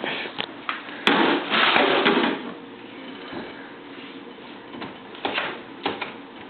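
A manual wheelchair being handled and taken apart against the truck's cab: a burst of scraping and rattling about a second in, lasting over a second, then a few short clicks and knocks near the end.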